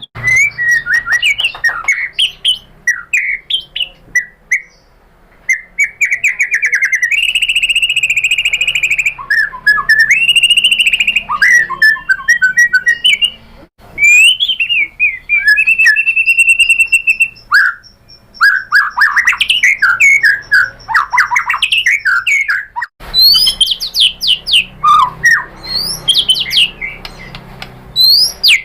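White-rumped shama (murai batu) singing a long, varied song of clear whistles, fast rippling trills and harsher chattering notes, with a couple of long held whistles. The song breaks off abruptly a few times and resumes.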